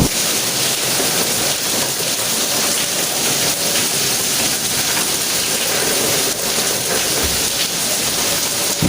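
Steady rain falling, an even hiss with no clear thunder.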